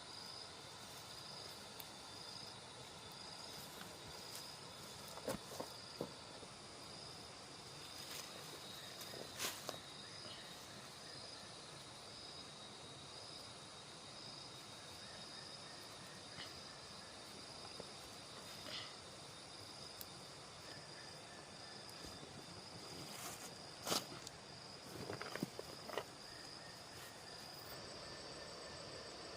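Insects, crickets by their sound, chirping in a steady high trill that pulses slightly, with a few scattered soft knocks and clicks.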